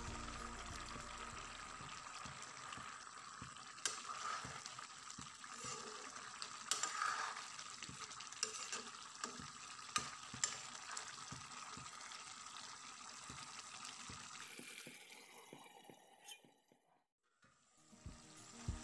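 Chicken and bamboo-shoot curry sizzling and bubbling in a wok. A metal spatula stirs it, scraping and clicking against the pan now and then. Near the end the sound fades almost to nothing for a moment before picking up again.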